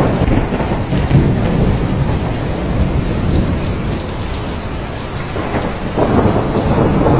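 Steady heavy rain with a rolling low rumble of thunder, easing a little midway and swelling again about six seconds in.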